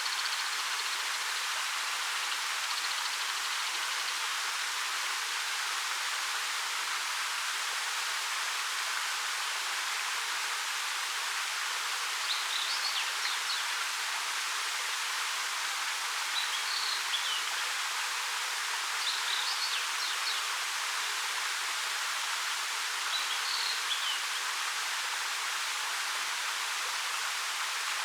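Steady rush of a 13-metre waterfall spilling over rock. A small bird gives short high chirps four times in the second half.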